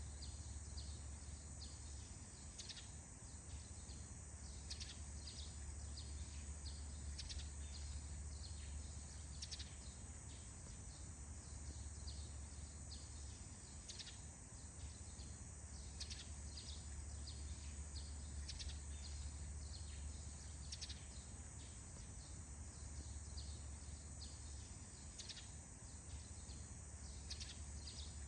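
Morning forest ambience: frequent short bird chirps over a steady high hiss and a low steady hum.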